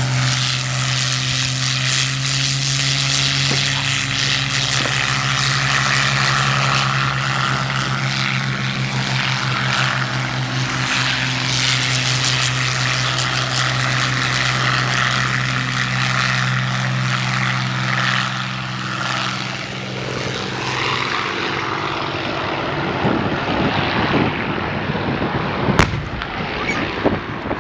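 Merlin engines of two Hispano Buchón fighters (Spanish-built Bf 109s) at take-off power, a steady, loud propeller-engine drone. The steady engine tone thins out after about twenty seconds, and there is a single sharp crack near the end.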